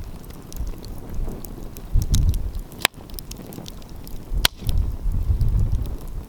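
Wood fire crackling with a scatter of small ticks and two sharp, loud pops about three and four and a half seconds in. Gusts of wind rumble on the microphone, strongest around two seconds in and again after the second pop.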